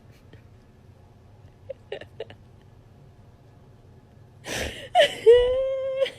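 A brief noisy burst, then one drawn-out, high-pitched vocal cry of about a second near the end, over a faint low hum.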